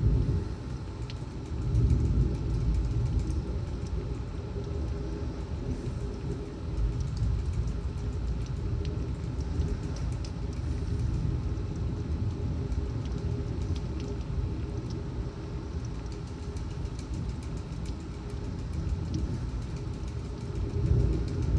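Severe thunderstorm: a steady, surging low rumble of wind gusts and torrential rain, with many faint raindrop ticks, growing louder near the end.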